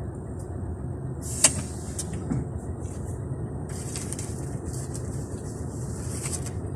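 Low, steady rumble of a running vehicle, with one sharp click about a second and a half in and brief hissy rustles on top.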